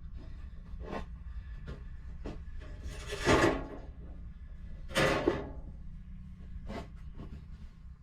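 Hand work with tools: two loud rubbing or scraping strokes, about two seconds apart, among light knocks and clicks, over a steady low hum.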